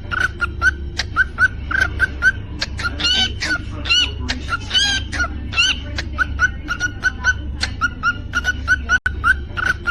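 Cockatiel chirping in a rapid run of short repeated chirps, about three a second, broken by a couple of longer whistled calls around three and five seconds in. A steady low hum runs underneath.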